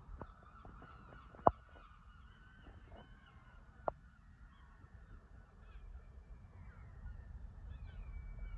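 A train approaching, its low rumble building toward the end, under a thin, steady high-pitched squeal. A few sharp clicks cut through, the loudest about a second and a half in.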